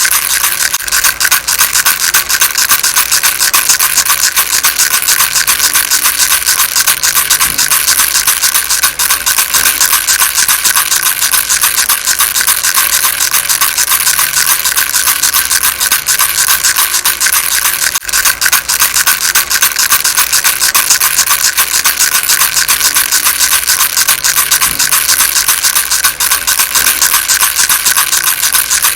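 A rattle shaken continuously and fast, a dense, even, high rattling with no pauses or changes.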